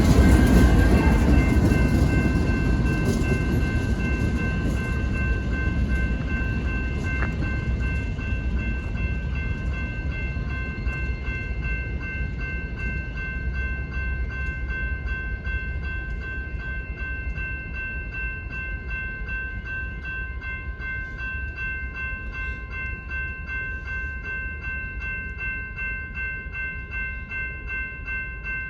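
Freight train rolling past and slowly drawing away, its low rumble fading. A steady high ringing runs throughout, and regular clicks of wheels over rail joints come through later on.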